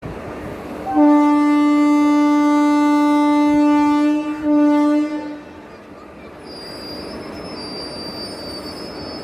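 Indian Railways passenger train's locomotive horn sounding a long blast about a second in, briefly dipping and picking up again before it stops about five seconds in: the departure signal as the train leaves the station. After it, thin high-pitched wheel squeal over a steady rumble as the train moves off.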